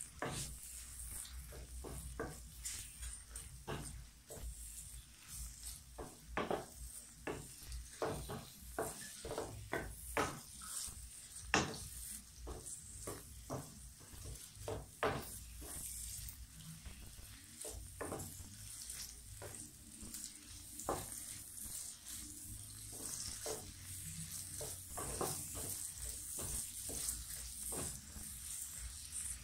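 Sliced red onions frying in a wok with a steady high sizzle, while a wooden spatula scrapes and knocks against the pan in quick, irregular strokes as they are stirred; one knock about 11 seconds in is the loudest.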